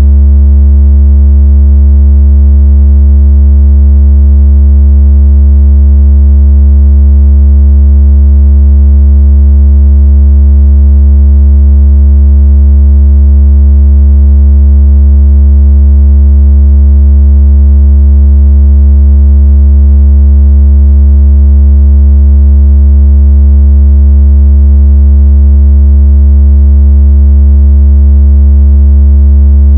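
A continuous, very loud, deep electronic tone, steady and unchanging, with faint overtones above it. It is a synthesized vibration tone meant to shake water out of a phone speaker.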